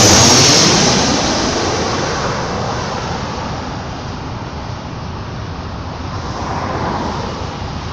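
Jet airliner on final approach passing low overhead, its engine roar loudest at the start with a sweeping, phasing whoosh, then slowly fading as it moves away.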